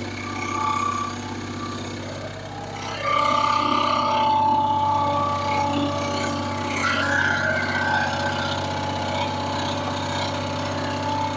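Sawmill's engine running steadily, with a high steady whine joining and getting louder about three seconds in.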